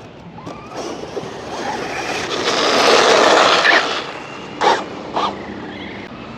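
An electric RC basher car running close by, a rush of motor and tyre noise that swells to its loudest about halfway through and then fades, followed by two sharp knocks.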